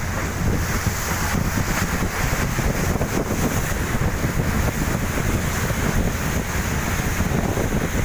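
Wind buffeting the microphone over the steady drone and water rush of a fast boat under way.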